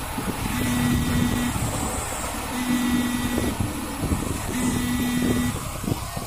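Truck horn sounding in three even one-second blasts about two seconds apart, all on the same steady pitch, over a running truck engine.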